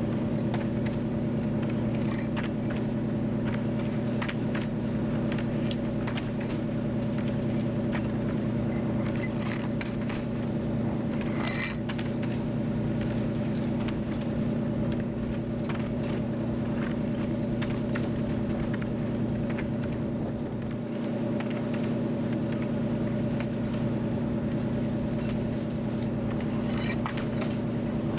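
TU7 narrow-gauge diesel locomotive's V12 diesel engine running steadily under way, heard from the cab, with frequent clicks, knocks and rattles over the steady drone.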